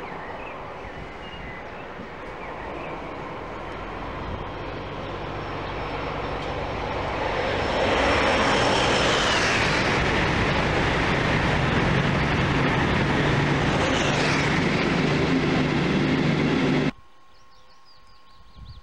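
ICE high-speed electric train passing at about 250 km/h: the rush of wheels and air builds over several seconds, stays loud for about nine seconds as the train goes by, then cuts off suddenly near the end.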